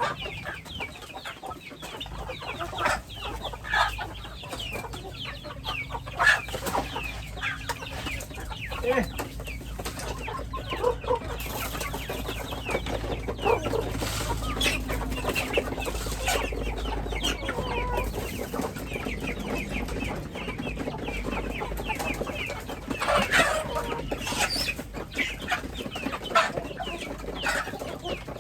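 Domestic chickens clucking and calling continuously, many short quick calls overlapping, a little louder about three-quarters of the way through.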